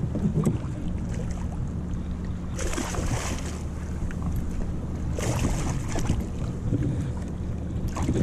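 Wind on the microphone and water moving around a kayak, over a steady low hum. Two short rushes of hiss come about three seconds in and again about five and a half seconds in.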